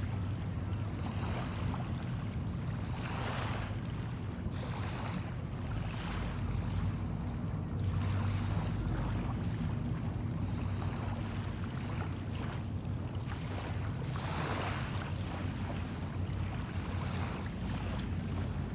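Small waves washing onto a sandy bay shore in swells every few seconds, over a steady low engine drone.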